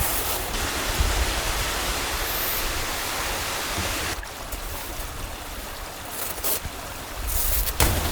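Steady rush of a mountain stream, with a low wind rumble on the microphone. The sound drops and changes about four seconds in, then swells again near the end.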